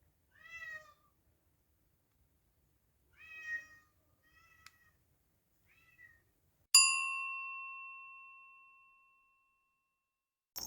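A cat meowing four times in short mews, then a single bright bell-like ding that rings out and fades over a couple of seconds.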